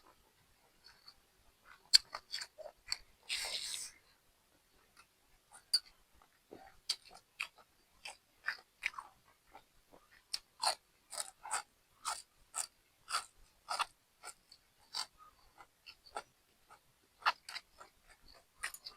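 A person chewing crunchy food close to the microphone, with crisp crunches about two a second. There is a short hissing noise about three and a half seconds in.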